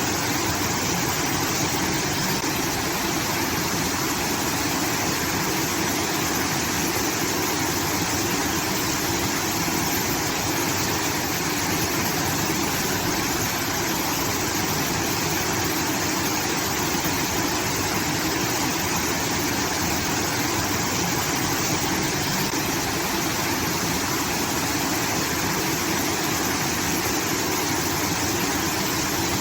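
Water rushing steadily through a rice field irrigation channel, a continuous waterfall-like splashing with no change in level.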